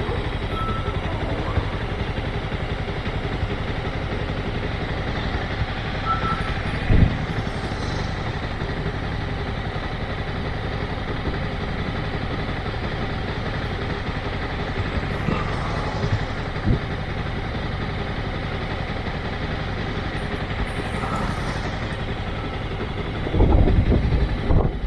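Motorcycle engine running steadily at low revs, with a few faint short beeps in the background; near the end it gets louder and rougher as the engine is opened up.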